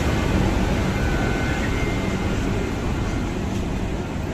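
Steady rumble of an express train running on the track just after departure, heard from inside a coach, with a faint thin whine about a second in.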